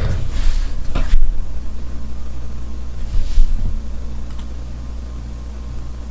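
A steady low hum with a few dull knocks and bumps in the first four seconds, then only the hum.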